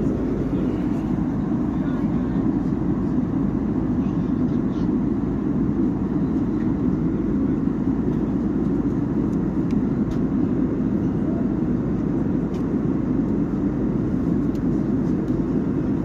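Steady low rumble of an airliner cabin in flight: engine and airflow noise at an unchanging level, with a few faint small clicks.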